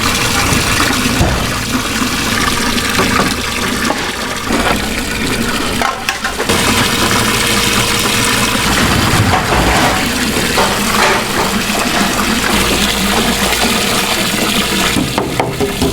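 Water running and splashing hard, as from a tap or hose in a kitchen, broken by a few abrupt cuts.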